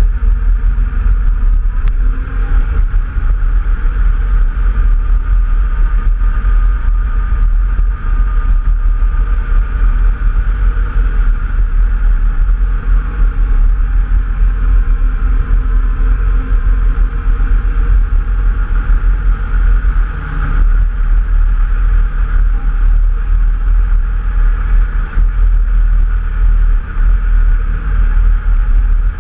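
An off-road vehicle running steadily on a trail ride, with heavy wind buffeting on the microphone.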